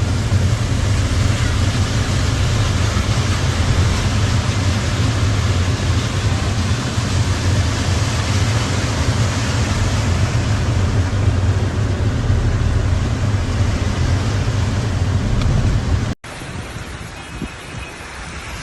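Heavy rain heard from inside a car, a loud steady hiss over a low drone of engine and road noise. About sixteen seconds in it cuts off to a quieter, steady rain.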